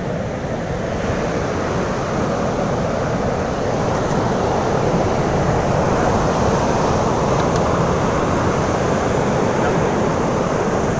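Steady rush of surf washing onto the beach, mixed with strong wind on the microphone, swelling a little over the first few seconds.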